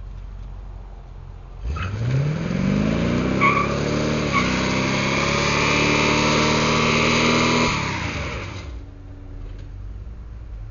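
1978 Chevy 3/4-ton truck's 350 V8 idling, then revving up hard about two seconds in, with a hiss over the engine. The pitch drops briefly around four seconds in, the engine holds high revs, and it falls back to idle about two seconds before the end.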